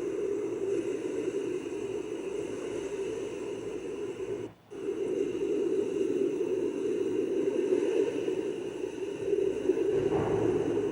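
Steady rushing noise of heavy rain and floodwater in a street, briefly cutting out about four and a half seconds in.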